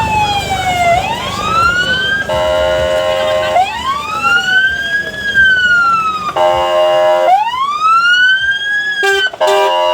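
Fire engines' sirens on an emergency run: a falling tone, then long wails that rise and fall, broken up three times by steady many-note horn blasts, which pulse on and off near the end.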